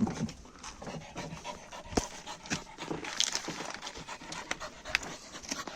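A dog panting close by, with a few sharp clicks, the clearest about two seconds in.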